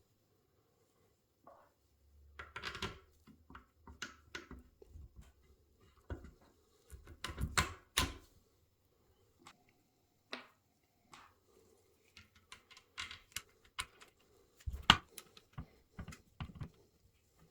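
Irregular clicks, taps and knocks of hand tools and metal motorcycle parts being handled at a workbench, with a busier run of clatter about halfway through and one sharp knock, the loudest, near the end.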